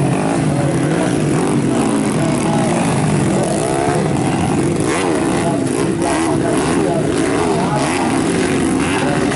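Several modified underbone motorcycle engines running and revving at once, their pitches rising and falling and overlapping one another.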